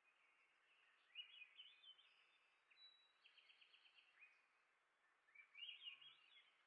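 Songbirds singing faintly over a steady hiss: a short warbled phrase about a second in, a fast trill of repeated notes in the middle, and another warbled phrase near the end.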